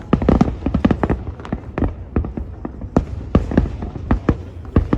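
Aerial fireworks bursting in quick succession: a dense, irregular run of sharp bangs and crackles, several a second, over a continuous low rumble.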